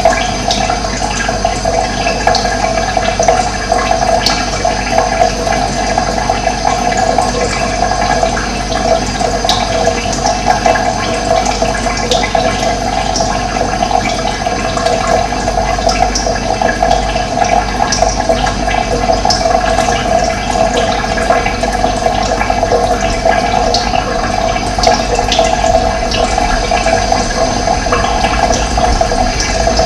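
Running water: a steady rush of flowing water with small splashes flickering through it.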